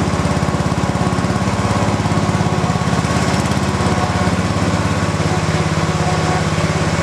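1986 John Deere 165 hydrostatic lawn tractor's engine running steadily, with a fast, even firing beat.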